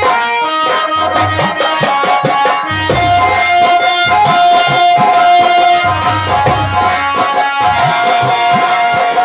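Nautanki folk-theatre ensemble music: fast hand-drum strokes with deep drum rolls coming back about every three seconds, under a melody that holds one long note in the middle.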